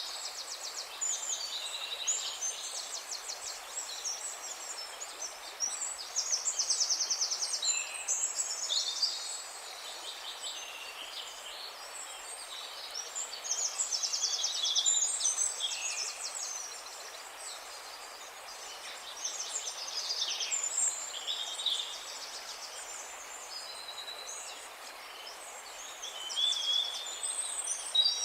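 Several wild birds singing at once, overlapping rapid trills and chirps that come and go, over a faint steady hiss.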